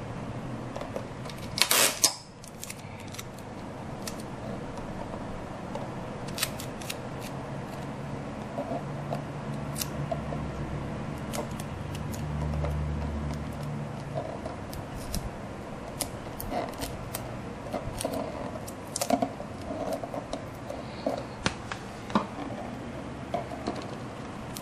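Scattered small clicks and rustles of hands working small craft pieces for a model ship, with a louder rustling scrape about two seconds in.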